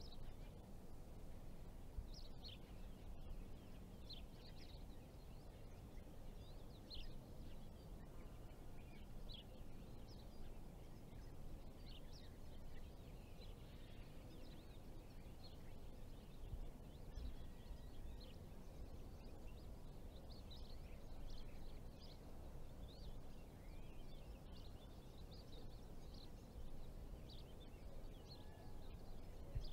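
Faint outdoor ambience: a low, steady rumble with many short bird chirps scattered throughout.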